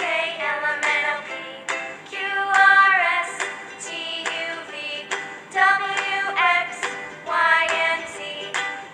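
Children's song: a high female voice singing a melody over music with a steady beat.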